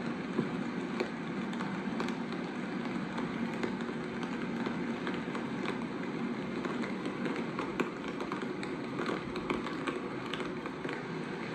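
A steady low rumble with irregular light clicks and taps scattered over it.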